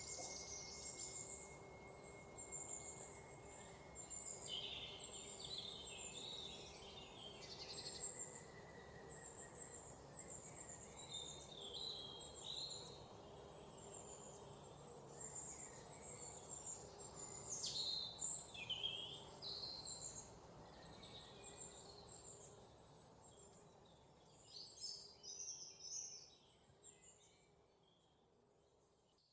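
Several songbirds chirping and whistling in short, overlapping calls over a steady outdoor background hiss. The sound fades out over the last few seconds.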